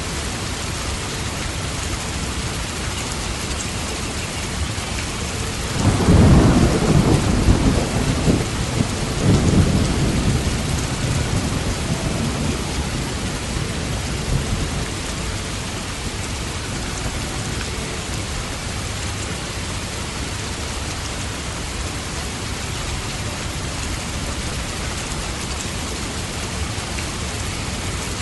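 Steady heavy rain with a roll of thunder: the rumble starts suddenly about six seconds in, swells again a few seconds later and fades out over the next several seconds while the rain carries on.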